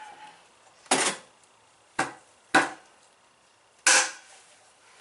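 Four sharp knocks and clacks of metal scooter parts being handled and fitted together, about a second in, twice around two to two and a half seconds, and once near four seconds.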